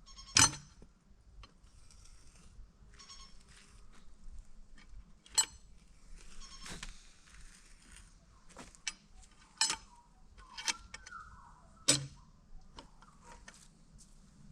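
Scattered light clicks and knocks, about six spread unevenly, over faint crackly rustling, as of things being handled or shifted.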